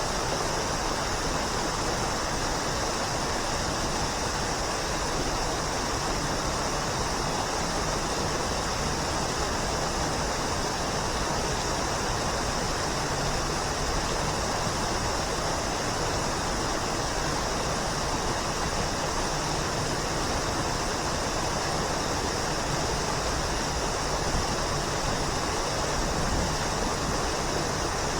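Waterfall: falling water rushing in a steady, unbroken wash of noise with no changes.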